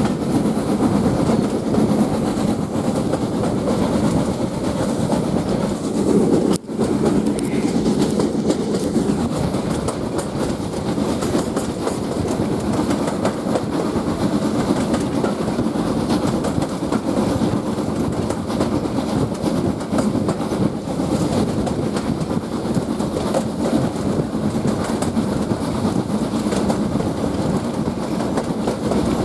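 Steam-hauled passenger train running along the line, heard from a coach: a steady, loud rumble of the coaches' wheels on the track with clicking over the rail joints. The sound drops out for a split second about six and a half seconds in.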